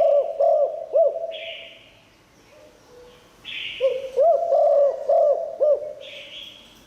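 Spotted dove cooing: two phrases of its low, rolling coo song, a couple of seconds each, with a short pause between. It is a kept calling bird whose song is meant to lure wild doves in.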